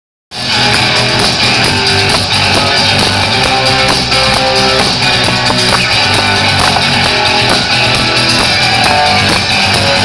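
A band playing guitar-led rock music, which starts abruptly a moment in and then runs on at a steady, loud level.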